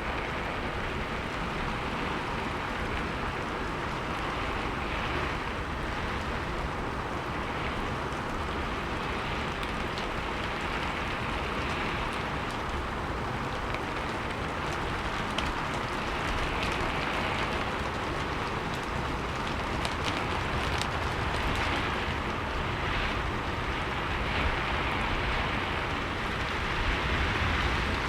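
Steady rainfall: a dense, even hiss of rain with a few faint separate drop ticks and gentle swells in intensity.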